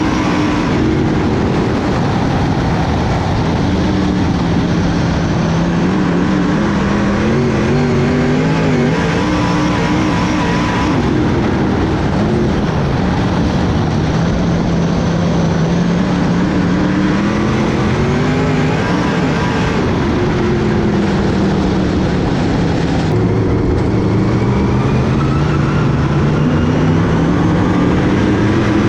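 Dirt-track race car engine running loud and steady at speed, its pitch rising and falling again and again as the throttle comes on and off.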